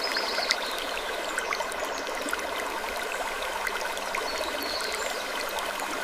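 A steady rushing noise, like running water, with many small faint clicks scattered through it.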